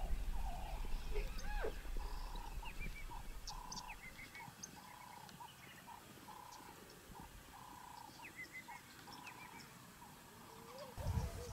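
Wild birds calling: one repeats a short, even note about twice a second while others chirp higher over it. A low rumble fades out in the first few seconds.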